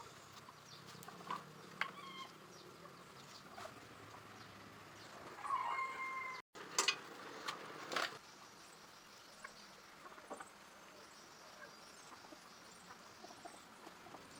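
Faint calls of domestic fowl, including one longer held call about six seconds in, amid scattered light clicks and taps.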